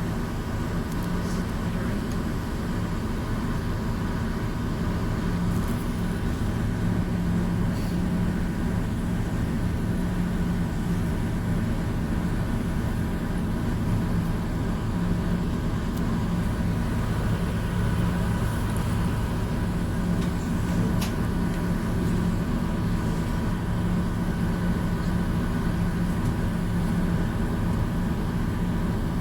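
Steady low drone of a passenger ferry's engine, heard from on board.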